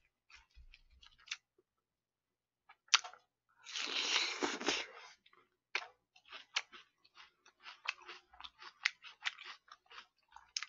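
Close-up chewing of crunchy onion slices: a quick run of short, wet crunches, a few per second, from about halfway on. About four seconds in there is a brief rustling hiss lasting about a second.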